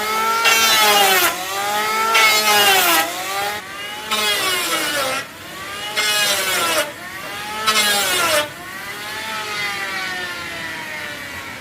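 A chainsaw cutting wood in repeated bursts, its engine revving up and dropping back with each cut, then winding down near the end.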